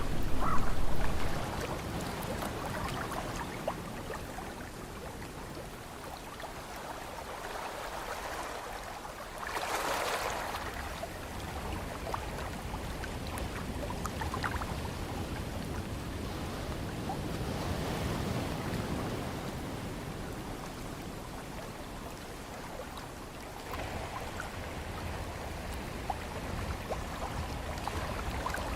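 Ocean surf: waves breaking and washing in, swelling and fading, with a strong surge about ten seconds in.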